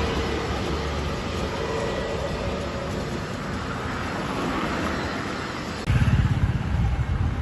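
Steady roar of jet airliner engines, with a faint whine over the noise. About six seconds in, a sudden loud low buffeting sets in, like wind on the microphone.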